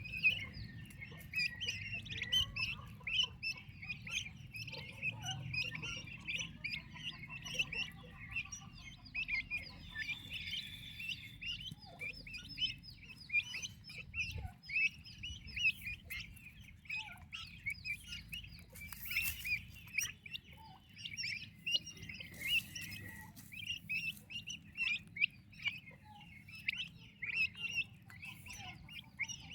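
Turkey chicks peeping, a constant stream of many short, high overlapping cheeps.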